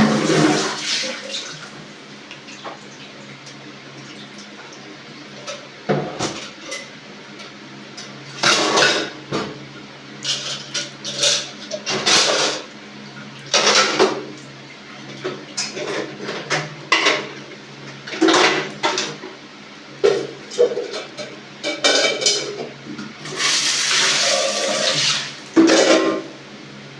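Intermittent splashing of running water and clattering of dishes, in irregular bursts of a second or two, over a steady low hum.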